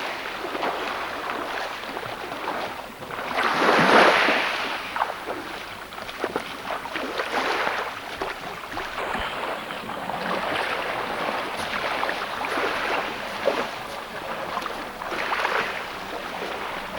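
Sea water washing and splashing, with wind on the microphone; a louder wash of water about four seconds in and a smaller one near the end.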